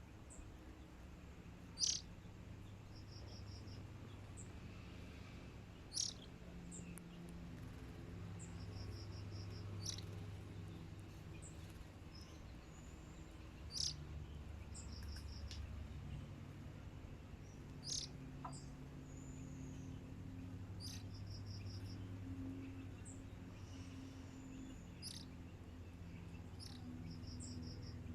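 A bird gives single sharp, high chirps about every four seconds, and a short rapid ticking trill repeats between them. A steady low hum runs underneath.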